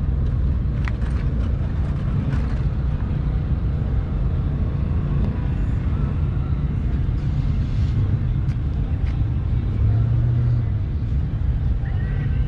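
Steady low rumble of car engines running, with a brief low hum about ten seconds in.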